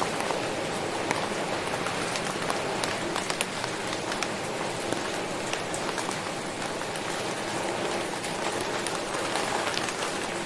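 Steady rain falling, a dense even patter with many individual drops ticking sharply on a hard surface.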